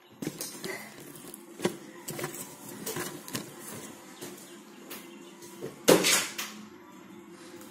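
Close-up eating sounds: a person chewing fried chicken and fries, with a run of short sharp clicks and one louder noisy burst about six seconds in.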